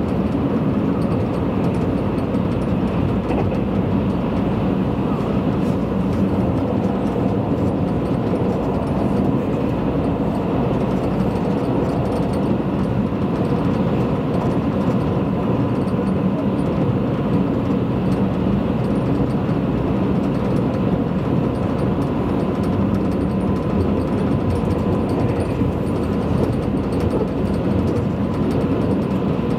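Interior noise of a Tobu Spacia limited express running at speed: a steady rumble of wheels and running gear, with a faint steady high tone on top.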